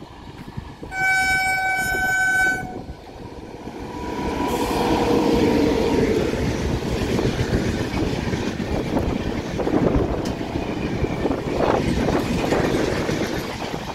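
Indian Railways train locomotive's horn sounds one steady, single-pitched blast of just under two seconds. Then the passenger train runs past at speed: a loud, steady rumble of coaches on the rails with irregular wheel clatter.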